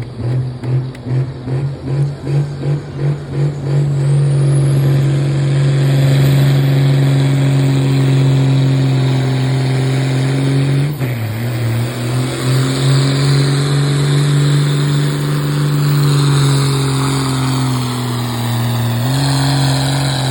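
Pulling truck's engine at high revs, throbbing in quick pulses about three a second at first, then held steady under full load as the truck pulls the sled. The revs dip briefly about halfway and sag again shortly before the end.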